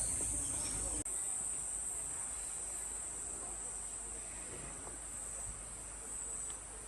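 Chorus of rainforest insects making a steady, high-pitched buzz.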